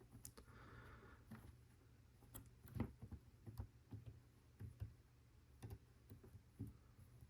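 Faint, irregular clicks and taps of LEGO Technic plastic pieces being handled and pushed together, about a dozen scattered short ticks.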